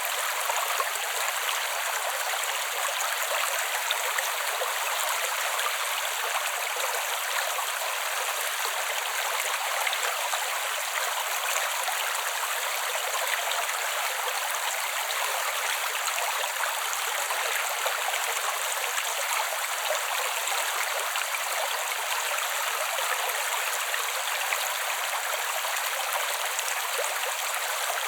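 Creek water flowing steadily over stones, an even rushing and trickling with no bass and no change.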